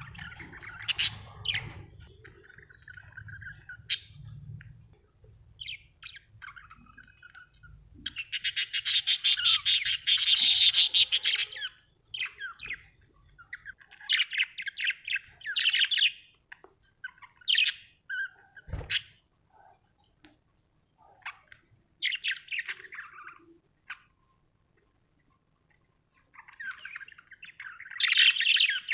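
Budgerigars chirping and chattering in short bursts, with a dense, rapid warbling chatter lasting a few seconds about a third of the way in. A single sharp click about two-thirds through.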